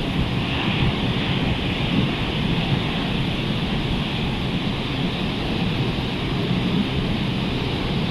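Rough, hurricane-stirred surf breaking and washing on a beach, a steady noise with strong wind rumbling on the microphone.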